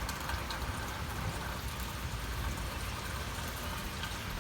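Hail and heavy rain pouring down in a storm: a steady hiss with many small ticks of hailstones striking hard surfaces, over a low rumble.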